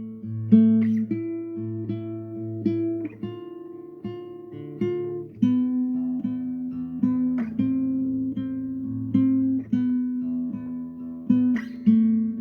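Solo acoustic guitar playing: plucked melody notes and chords over low bass notes, each note ringing out and fading before the next is picked.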